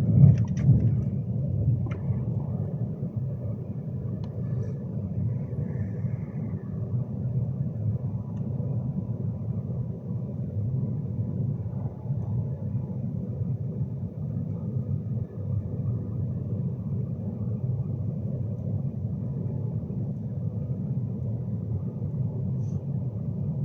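Steady low rumble inside the passenger saloon of a Class 390 Pendolino electric train running at speed, with a brief louder surge and a few faint clicks about a second in.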